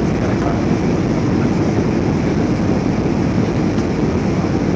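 Steady cabin noise inside an Airbus A320 in flight: an even, unbroken rumble of engine and airflow.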